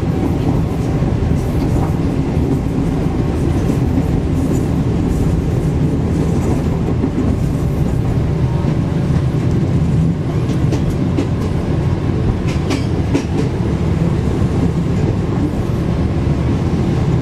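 Passenger train running, heard on board: a steady low rumble of wheels and carriage, with light rattling clicks now and then.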